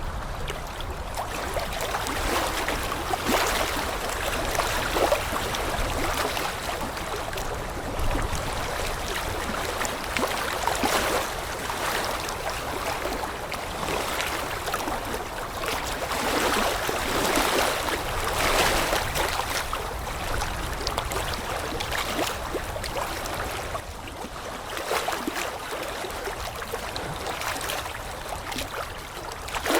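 Rushing water: a steady noisy wash that swells and eases every few seconds.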